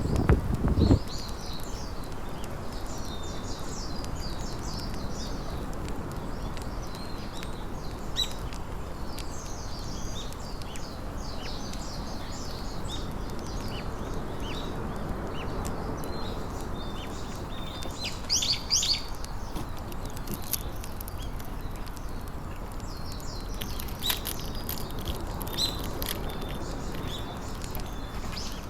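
Small birds chirping and calling on and off, over a steady low rush of outdoor background noise. A brief low rumble sounds in the first second.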